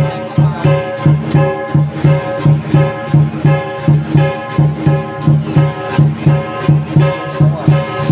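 Lion dance percussion: a large drum beats a steady rhythm of about two to three strokes a second, with cymbals and a gong ringing over it.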